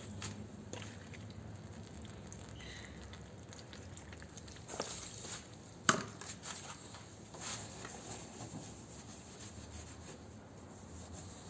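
Faint scraping and rubbing, with a sharp click about six seconds in.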